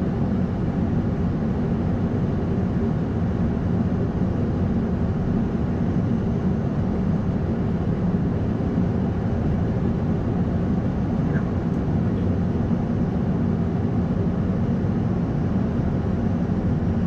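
Steady, unchanging rush of aircraft noise from an Airbus A220-100 at low power, such as while taxiing.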